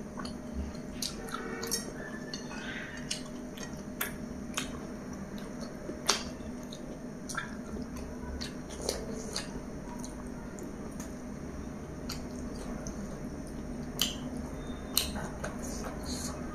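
Close-miked eating: irregular wet clicks and smacks of a mouth chewing chicken curry, with fingers picking the meat off the bone, over a steady low hum.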